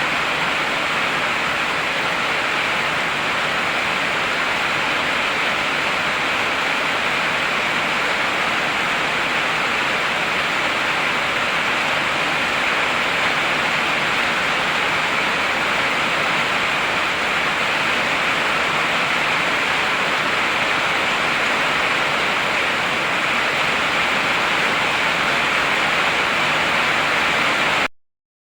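Heavy rain falling steadily in an even hiss, with no thunder; it cuts off abruptly to silence near the end.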